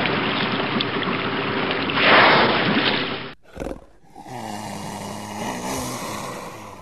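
Water splashing and rushing as a whale thrashes at the sea surface, swelling about two seconds in and cutting off after about three seconds. A quieter low hum follows.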